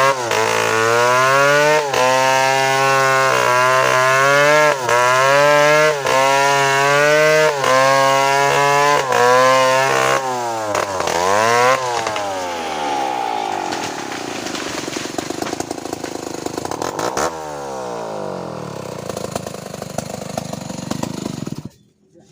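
Two-stroke chainsaw running at high revs while cutting a coconut trunk, its pitch dipping under load and recovering about once a second. Later the engine drops off and revs back up in quick swoops, runs on more roughly, then cuts off suddenly near the end.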